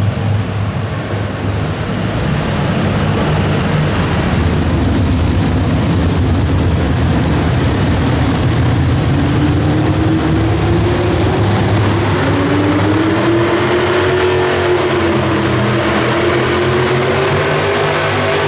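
Loud, continuous engine noise from a two-wheel-drive pulling truck running hard. A tone climbs slowly in pitch through the second half.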